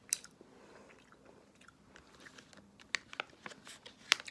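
Chewing of soft grape gummy candy, with faint wet mouth noises and a few sharp clicks, one at the start and one near the end.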